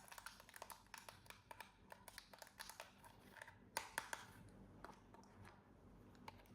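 Faint, scattered light clicks and crinkles of hands handling plastic toy parts and packaging, with a louder cluster of clicks about four seconds in.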